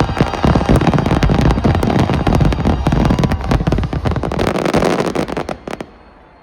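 Finale barrage of aerial fireworks: a dense run of overlapping booming bursts and crackles that stops suddenly about a second before the end.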